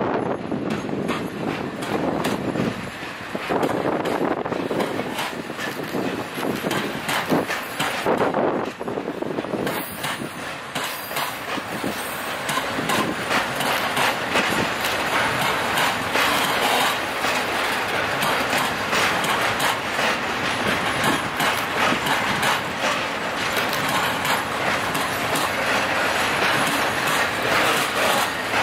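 Long freight train of open-top wagons rolling past: steady rumble of steel wheels on the rails with dense, rapid clicking and clatter.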